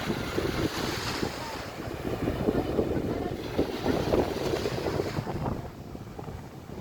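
Wind buffeting the microphone in uneven gusts over the wash of surf on a beach, easing a little near the end.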